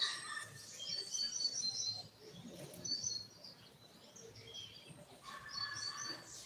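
Double-collared seedeater (coleiro) singing its short tui-tui song: three phrases of quick, high chirping notes with short pauses between them.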